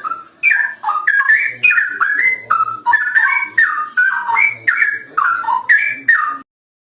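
Straw-headed bulbul (cucak rowo) singing loudly: a fast, continuous run of rich, liquid whistled notes sliding up and down. The phrase stops abruptly near the end.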